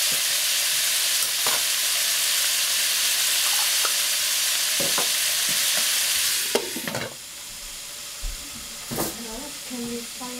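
Shredded cabbage and capers sizzling in hot oil in a cooking pot. About six and a half seconds in, a glass lid clanks onto the pot and the sizzling drops to a quieter, muffled hiss.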